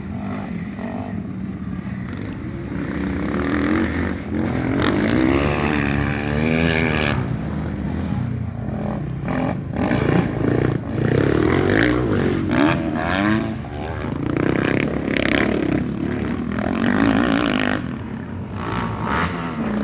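Racing motorcycle engines revving hard, their pitch climbing and falling again several times as bikes accelerate and pass.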